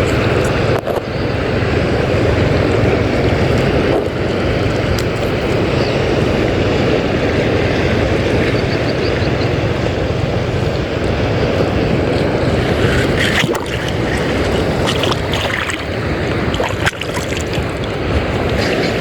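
Small fishing boat under way at sea: a steady engine drone mixed with water rushing past and wind on the microphone.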